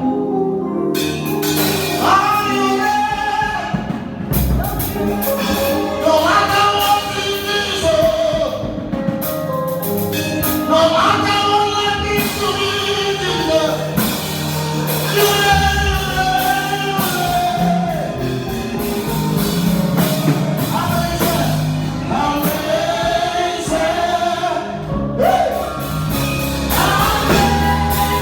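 Live gospel music: a singer's voice in phrases over a band with drums, with backing voices.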